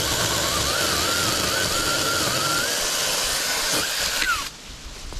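Battery-powered Saker 20-volt mini chainsaw running under load through a limb, its electric motor whine wavering as the cut loads it. About four and a half seconds in the trigger is released and the motor spins down with a falling whine.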